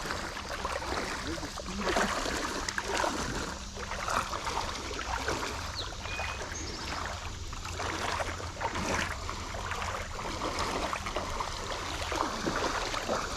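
Creek water sloshing and splashing around someone's legs as they wade, in uneven strides.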